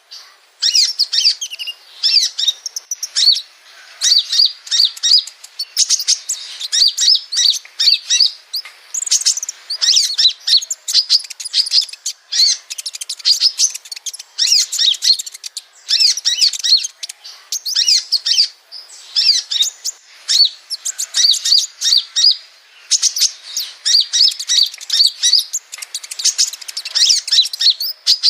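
A sunbird singing: rapid, high-pitched twittering phrases of quick chirps, each lasting a second or two, repeated with short gaps. It is a 'masteran' recording, sunbird song used to train caged songbirds.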